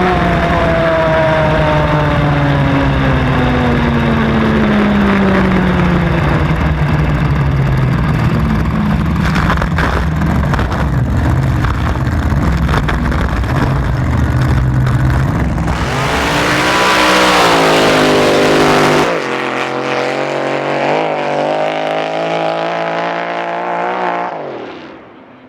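Drag boat engines: an engine note falls steadily in pitch as a boat slows, over a steady low rumble. About sixteen seconds in an engine revs up, runs on unevenly, then drops away and fades near the end.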